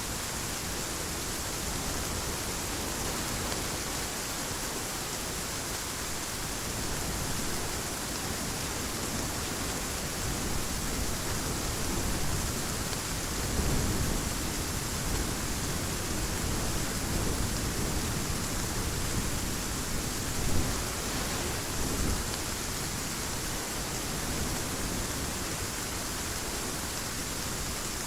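Heavy rain pouring steadily, with thunder rumbling low about halfway through and a sharper thunderclap a little later.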